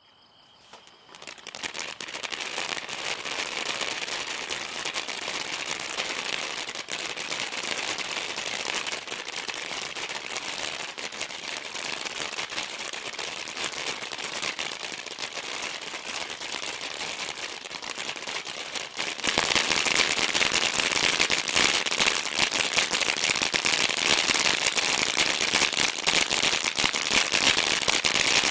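Brothers Fireworks 'Glitz It Up' ground fountain firework spraying: a continuous hiss thick with rapid crackling that builds up over the first couple of seconds and gets louder about two-thirds of the way through.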